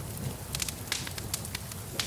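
Wood fire in a fireplace crackling, with several sharp pops a second over a steady hiss and low rumble.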